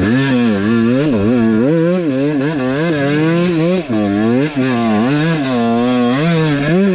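Husqvarna WR 125 two-stroke single-cylinder dirt bike engine being revved in short repeated throttle blips, about two a second, its pitch rising and falling sharply with each one.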